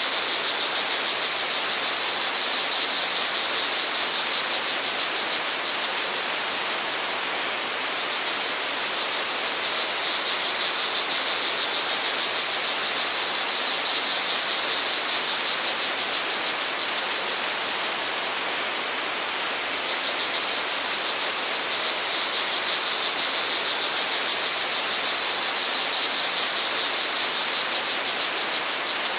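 Waterfall or stream water rushing in a steady, even hiss, with crickets trilling in a high, fast pulsing chorus that fades out briefly about a third of the way in and again about two-thirds in.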